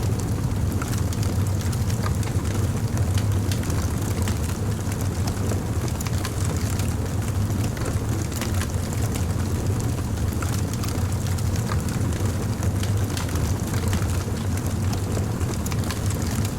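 Crackling fire: a steady low rumble of burning wood with frequent small sharp pops and crackles.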